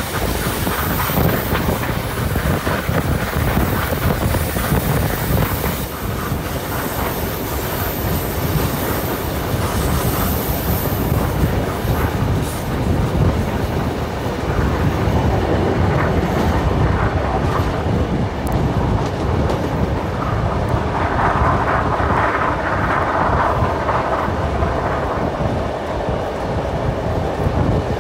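Passenger train running along the line, heard from an open carriage window: wheels rumbling and clattering on the track with wind rushing past, and a brief louder stretch near the end.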